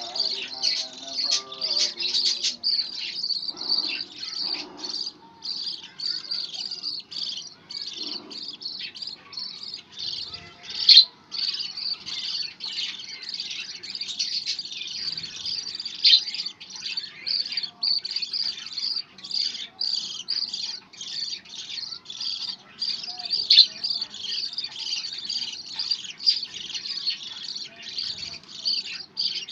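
Budgerigar chattering: a constant stream of quick chirps and warbles, with a few sharper, louder chirps here and there.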